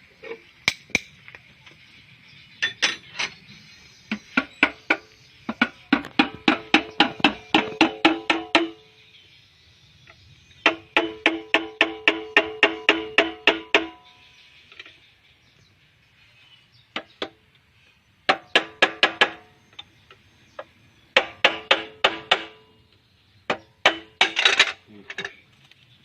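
Hammer blows on metal in quick runs of about four to five strikes a second, broken by short pauses, each blow leaving the struck steel part ringing. These are parts of a rice combine harvester being knocked loose during disassembly.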